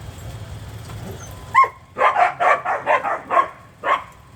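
Dogs barking: a sharp yelp about a second and a half in, then a quick run of about seven barks over the next two seconds.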